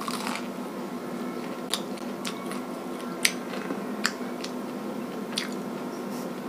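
Crisp fried corn fritter (bakwan jagung) being bitten and chewed, giving about six sharp crunching cracks at irregular moments over a steady room hum.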